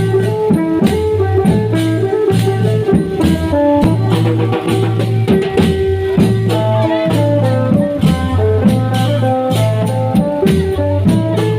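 Thai klong yao long-drum band music: a steady, repeating drum rhythm with percussion strikes and a melody of held notes on top.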